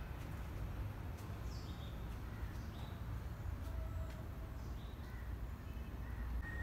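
Birds calling: short, high calls that slide downward, repeating every second or so over a steady low rumble.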